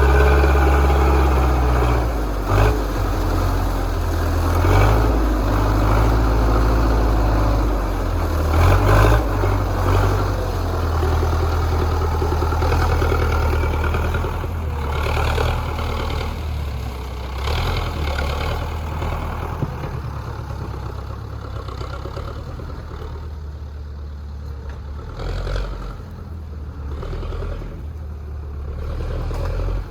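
Zetor 7745 tractor's four-cylinder diesel engine running under load, with a steady low drone and a few clunks. It grows quieter through the second half.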